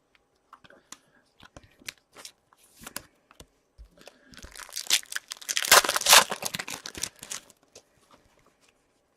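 A foil trading-card pack wrapper being torn open and crinkled, a dense crackling stretch from about four to seven and a half seconds in, with light clicks and rustles of cards being handled around it.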